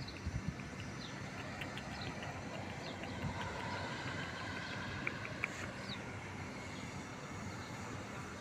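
Steady background noise with a few faint, short, high chirps scattered through it.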